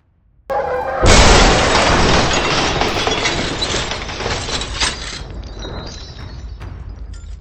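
Vehicle collision: a sudden loud crash with shattering glass about a second in, its noise slowly fading over the next few seconds.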